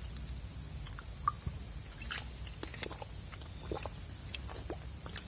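A person drinking: quiet scattered clicks and ticks of swallowing and bottle handling, over a faint steady high whine.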